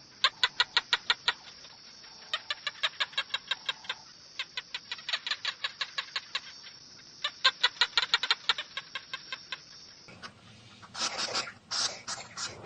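A chicken calling in runs of quick, sharp repeated notes, about six a second, with a steady high whine behind them. About ten seconds in, the sound changes to louder, irregular animal noises.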